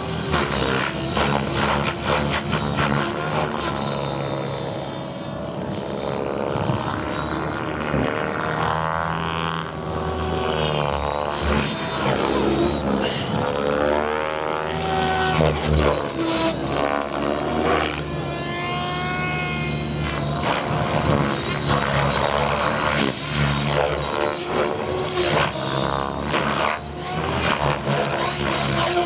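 Radio-controlled 3D helicopter flying aerobatics, its rotor and motor whine rising and falling in pitch again and again as it swoops and flips.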